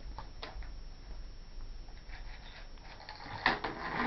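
Faint, scattered clicks and rustles of small plastic toys being handled, with a sharper click about three and a half seconds in.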